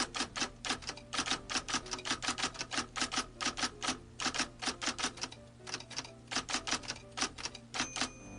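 Rapid typewriter keystroke clicks, about six a second, over soft background music.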